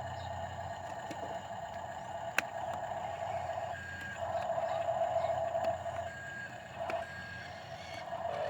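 Mercedes-Benz dump truck running steadily, with a sharp click a little over two seconds in and three short high beeps later on, like a reversing alarm.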